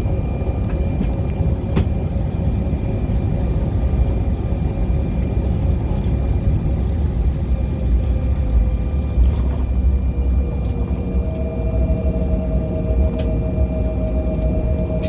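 Airliner cabin noise before take-off: a steady low rumble from the jet engines and airframe, with a faint engine whine that drifts slightly lower in pitch, and a second, higher whine joining about eleven seconds in.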